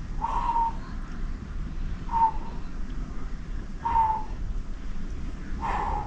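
A bird calling four times, a short call about every two seconds, over a steady low outdoor rumble.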